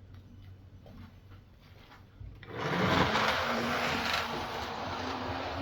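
HO scale model locomotive starting to run about two and a half seconds in: the small electric motor whirs and the wheels rattle on the track, with a steady hum under the clatter. A few faint clicks come before it.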